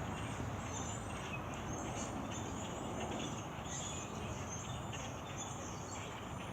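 A large flock of migrating birds calling all at once: a dense, constant chatter of high chirps, over a steady low background noise.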